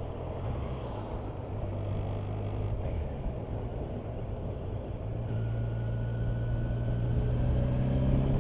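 Kawasaki Versys 1000 motorcycle's inline-four engine running at steady road speed under wind and road noise. Over the last few seconds the engine note rises gradually and grows louder as the bike picks up speed.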